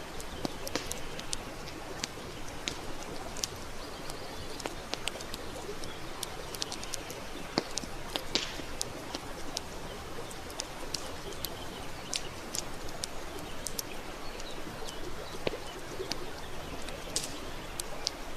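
Wood campfire crackling: a steady hiss of burning with frequent, irregular sharp pops and snaps.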